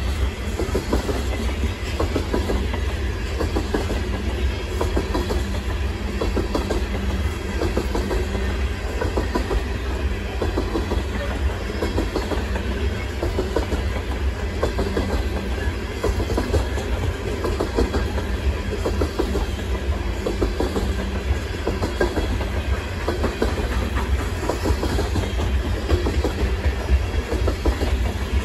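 A long train of coal cars rolling past, steel wheels clacking over rail joints over a steady low rumble.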